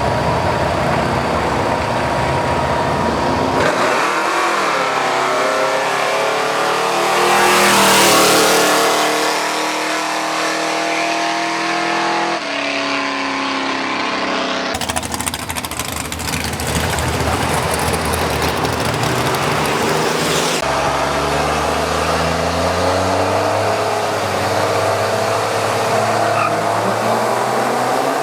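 Drag-racing vehicle engines accelerating hard down the strip, rising in pitch. One passes loudly about eight seconds in, then falls away. The sound changes abruptly a few times between runs.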